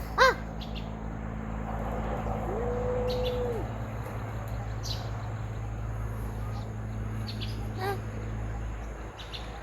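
Birds calling: a short, loud call about a quarter-second in, then a steady, level hoot lasting about a second, a brief call near the end, and small high chirps throughout.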